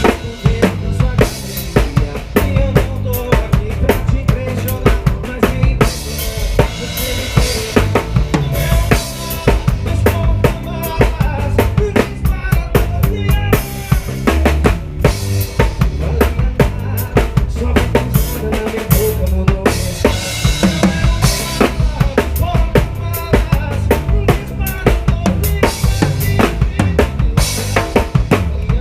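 Live band music with the drum kit to the fore: a steady beat of kick drum and snare over bass and other instruments, no break in the rhythm.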